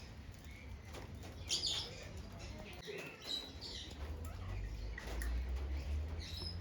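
Parrots chirping faintly, with a few short high calls, and a low rumble underneath in the second half.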